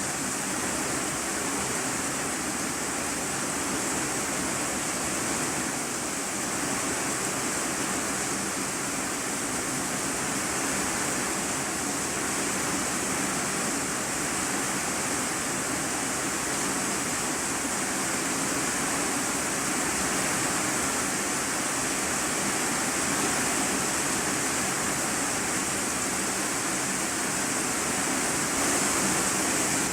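Heavy rain drumming on a corrugated iron-sheet roof, heard from inside the room beneath it: a dense, steady hiss of drops with a bright high edge.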